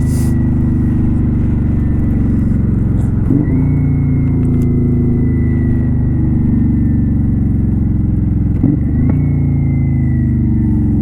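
2018 Kawasaki Vulcan 900 Custom's V-twin engine running under way, with two brief breaks about three and a half and nine seconds in, where the rider changes gear and the engine note shifts.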